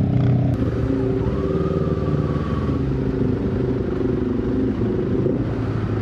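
Wind noise rushing over a Gille 873 Celeste forged-carbon helmet from inside, with the motorcycle's engine running steadily underneath while riding. The helmet lets in noticeable wind noise at speed.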